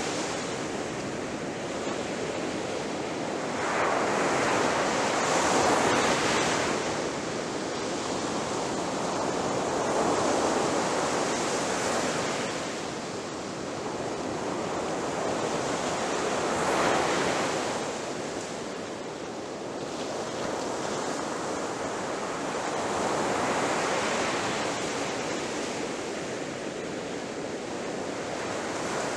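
Ocean waves breaking on the shore: a continuous wash of surf that swells with each breaking wave, about every six seconds, and falls back between them.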